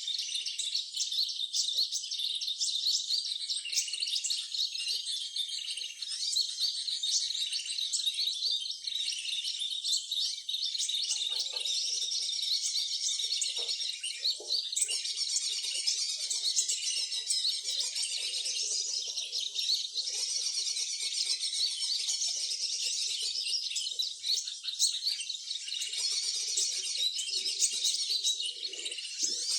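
Many small birds chirping and twittering at once, a dense unbroken chorus of short high calls, with fainter low sounds underneath from about a third of the way in.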